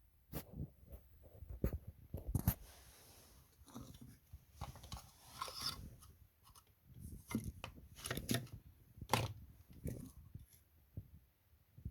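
Irregular clicks, taps and short rustling scrapes of small hard parts being handled and worked on a bench.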